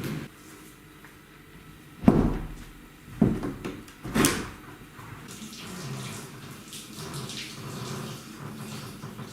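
Three loud knocks in the first half, then water running from a bathroom tap.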